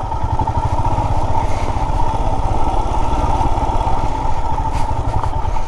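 Motorcycle engine running steadily at low revs as the bike is ridden along a dirt trail, with an even low pulsing throughout.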